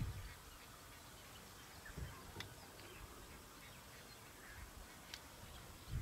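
Quiet bush ambience with a few faint, short bird calls.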